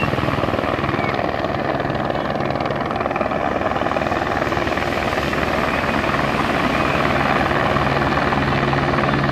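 Helicopter running with a fast, steady rotor chop over a low engine hum, growing a little louder near the end.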